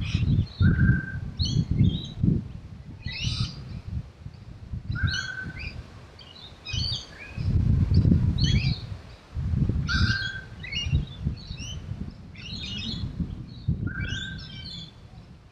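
Birds singing, one repeating a phrase about every four to five seconds: a short held whistle followed by a quick cluster of higher chirps. Underneath is a low rumble in gusts, loudest about eight seconds in.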